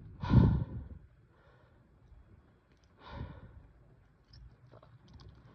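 A man breathing out heavily close to the microphone, twice, about three seconds apart; the first sigh is the louder.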